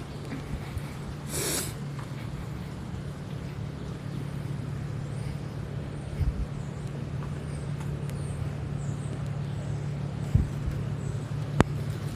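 Street ambience with a steady low traffic rumble, a brief hiss about a second and a half in, and a couple of knocks and a sharp click near the end.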